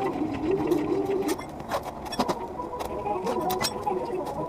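Scattered sharp clicks and clinks of hand tools on metal, over a faint wavering voice in the background.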